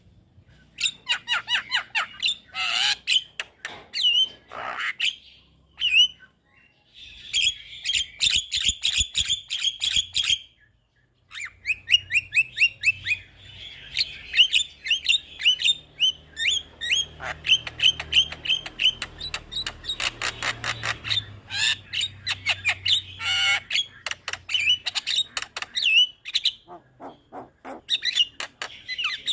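Javan myna singing energetically in fast runs of harsh clicking, chattering and short whistled notes, broken by two brief pauses.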